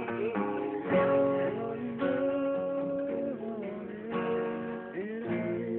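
Acoustic guitar strumming chords, a new strum struck about every second with the chord ringing between strums.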